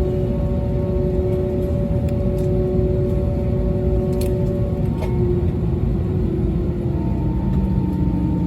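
Airbus A320neo cabin rumble with steady engine tones. About five seconds in, one tone cuts off and another slowly falls in pitch as the engines wind down after parking at the stand.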